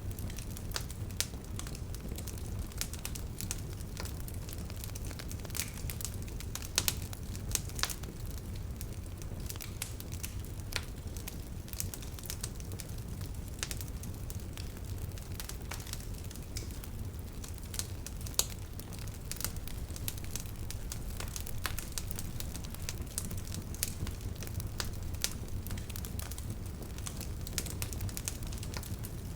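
Bonfire burning, with wood crackling and popping at irregular moments over a steady low rumble of the flames.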